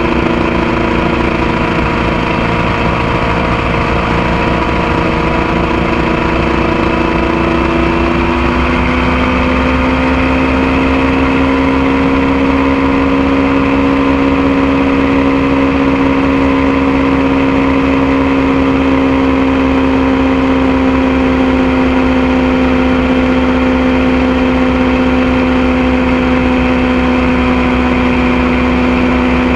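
Motorcycle engine running steadily under way, with wind and road rumble. Its pitch drops about eight seconds in and then holds steady.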